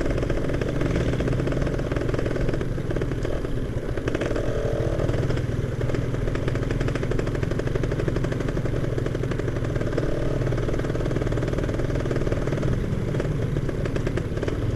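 Yamaha F1ZR's two-stroke single-cylinder engine running steadily while the motorcycle is ridden, a rapid even exhaust beat.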